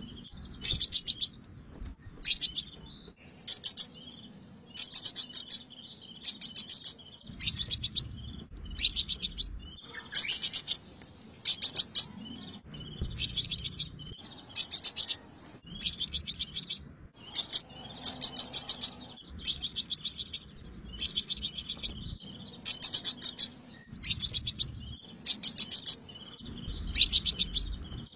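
Sunbird song: short bursts of rapid, high, thin chirps, repeated over and over with brief gaps between bursts. A low rumble comes and goes under some of the bursts.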